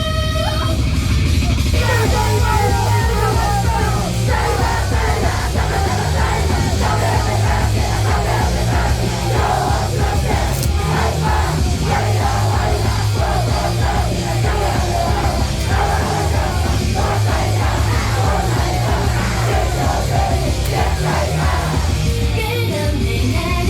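Loud rock band playing a heavy section with pounding drums and yelled vocals, thinning out near the end into a lighter sung passage.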